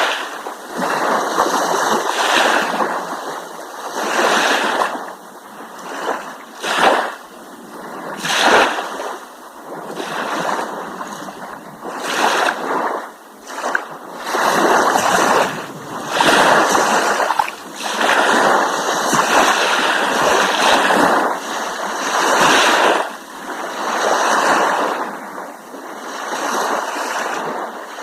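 Sea waves washing and splashing against rocks in repeated surges that swell and fall every couple of seconds, with sharp splashes at some of the peaks.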